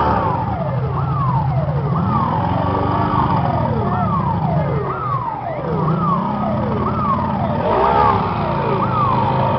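A siren sounding in quick falling sweeps, about one a second, over a low engine rumble.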